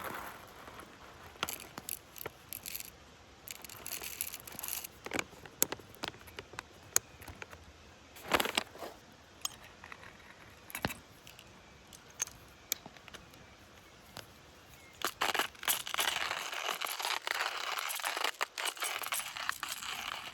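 Dry twigs and leaves snapping and crackling in scattered sharp cracks, then a steady crinkling rustle for the last few seconds.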